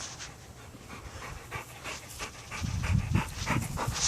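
Dog panting in quick breaths, getting louder about two and a half seconds in.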